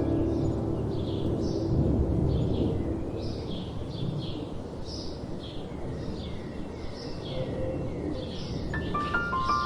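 Birds chirping in short calls repeated about twice a second over a steady low rush of wind. Soft music fades out at the start, and piano notes come back in near the end.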